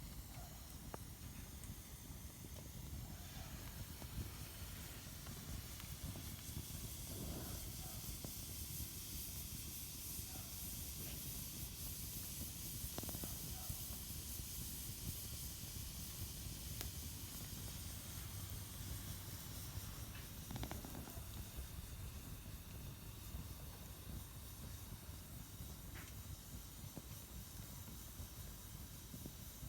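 Wood fire burning in a Solo Stove Campfire, a double-walled stainless steel fire pit: a steady hiss of flames with a few faint crackles and pops scattered through it.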